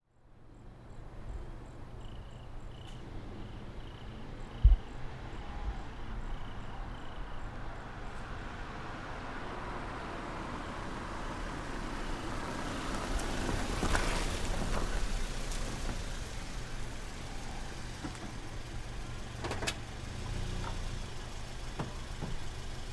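A small car's engine running steadily, growing louder toward the middle, with one sharp thump about five seconds in and a couple of short clicks near the end.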